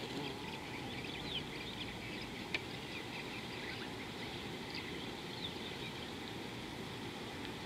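Outdoor ambience: a steady low rumble and hiss, with scattered short, high bird chirps throughout and a single sharp click about two and a half seconds in.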